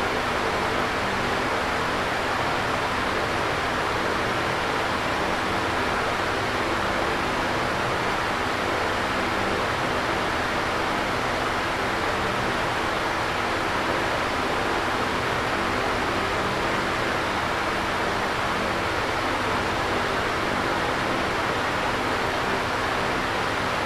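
Electric fan running steadily: an even whooshing rush of air with a faint low motor hum underneath.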